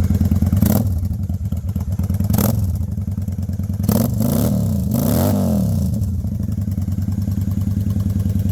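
Straight-piped Honda Shadow 750 V-twin idling shortly after a cold start at about 20 degrees, following four months unstarted. Around the middle the engine speed rises and falls briefly in a short rev.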